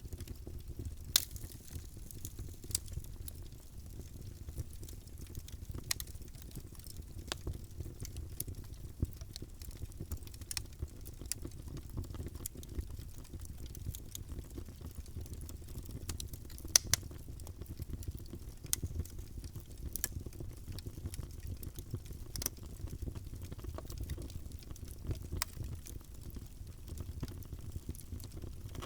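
Wood fire burning in a fireplace: a low steady roar of flame with scattered sharp pops and crackles, two louder snaps about a second in and a little past the middle.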